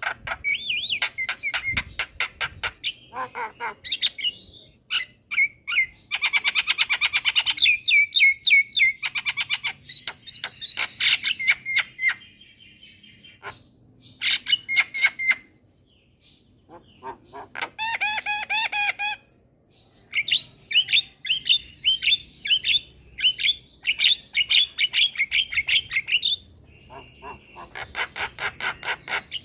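Javan myna (jalak kebo) singing in full voice: fast runs of harsh clicking notes and whistled chirps in bursts of a few seconds, with short pauses between the bursts.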